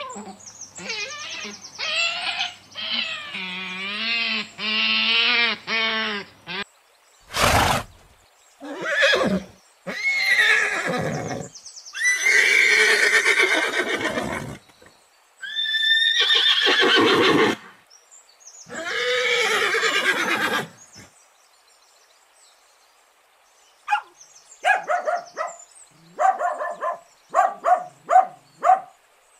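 Horses neighing: a long wavering whinny, then several separate whinnies of a second or two each.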